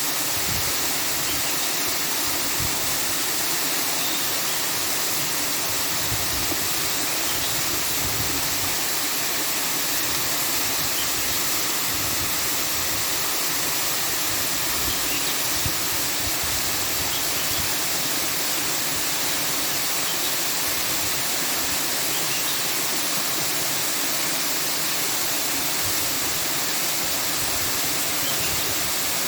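A steady, even rushing noise that holds unchanged at one level throughout, with no breaks or separate events.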